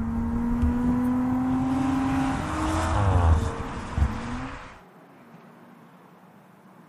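Audi RS4's 2.9-litre twin-turbo V6 pulling hard, its note climbing slowly and then dropping in pitch at an upshift about three seconds in. Just before the five-second mark the engine sound falls away to a faint low hum.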